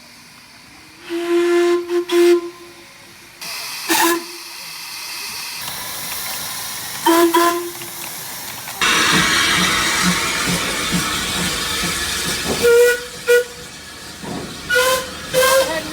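Steam locomotive whistle blowing a series of blasts, long and short, the later ones at a higher pitch, with loud steam hissing through the second half.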